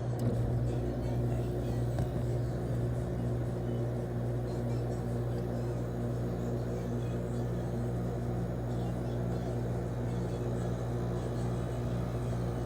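LG 5,000 BTU window air conditioner running on cool, its compressor giving a steady low hum along with the fan.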